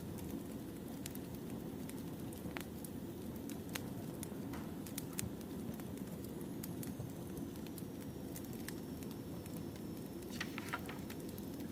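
Wood fire burning: a steady low rumble with scattered sharp crackles and pops, a quick run of pops a little before the end.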